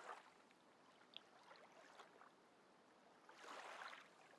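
Near silence: faint hiss, with one soft whooshing swell near the end.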